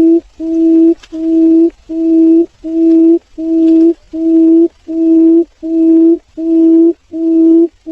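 Barred buttonquail calling: a long, evenly spaced series of low hoots, about one and a half a second, each held on the same pitch.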